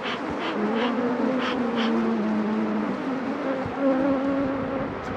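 Honeybees buzzing in flight around an opened hive, a wavering hum that shifts in pitch as bees pass close. Short hissy pulses repeat about twice a second during the first two seconds.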